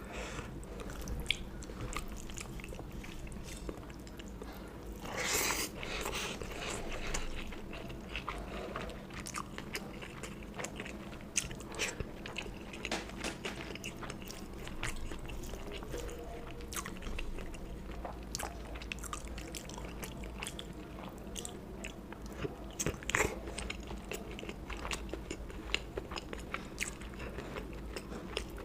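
Close-miked eating: a person biting and chewing food, with wet mouth clicks and crunches, one louder crunch about five seconds in.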